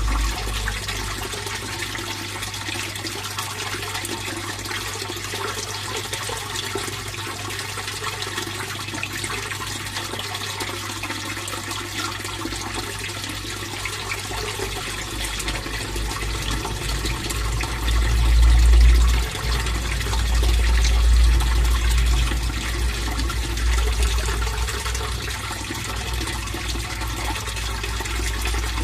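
Steady flow of water running and splashing into a fish pond, a continuous even rush. A deep low rumble under it swells for a few seconds about two-thirds of the way through.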